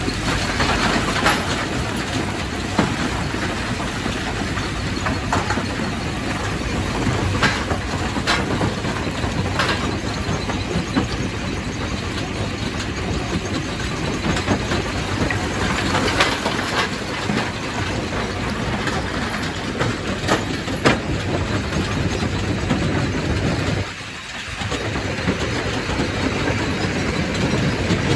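Quarry primary rock crusher running, a continuous heavy grinding noise with sharp cracks and knocks of stone breaking scattered through it. The noise drops briefly about three-quarters of the way through, then resumes.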